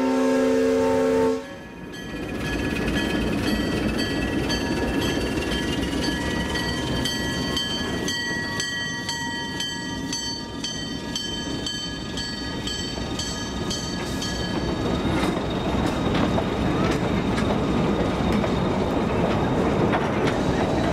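Alco RS-1 locomotive's horn sounding a steady chord that cuts off about a second in. Then the locomotive and a string of excursion cars roll past, with a steady rumble, a regular clicking of wheels over rail joints, and high metal-on-metal squealing from the running gear that dies away after about fifteen seconds.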